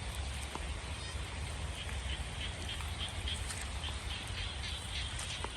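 Steady outdoor background noise with a low rumble, and a run of short, high, repeated animal calls from about two to five seconds in.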